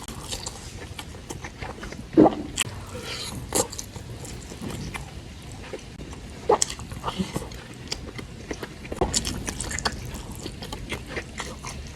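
Close-miked eating: mouth sounds of chewing and biting fried chicken, with wet smacks and small crunches scattered irregularly.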